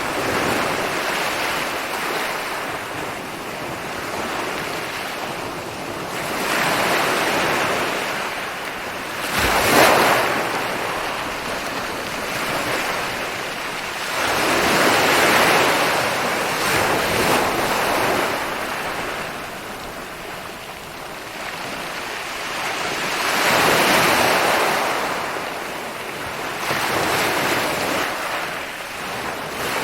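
Ocean waves rolling in and breaking on a beach, a steady wash of surf that swells and fades every few seconds, with one sharper crash about ten seconds in.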